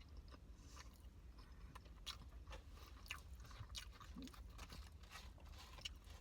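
A person chewing a bite of an extra crispy fried chicken tender: faint, irregular crunches through the mouthful.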